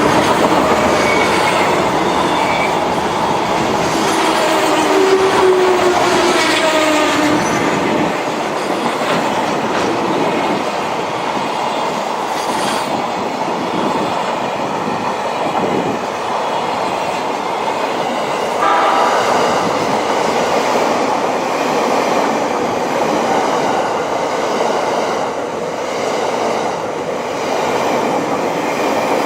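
An EH500 electric freight locomotive braking and an E231 series commuter train passing it the other way: steady wheel-and-rail running noise with clickety-clack. Whining tones fall in pitch over the first several seconds, and the E231 sounds its horn.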